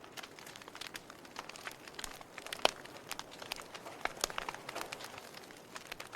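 Wood fire crackling: irregular sharp pops and snaps over a soft hiss, with one louder snap a little under halfway through.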